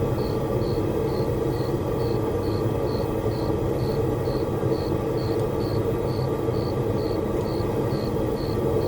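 Steady running noise of a blacksmith's forge, even and unchanging, with a high short chirp repeating regularly about twice a second over it.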